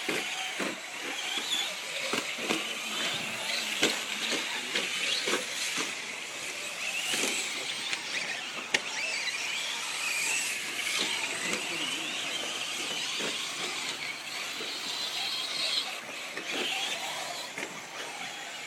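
Radio-controlled short course trucks racing: a high-pitched motor whine that rises and falls with the throttle, broken by many short sharp knocks.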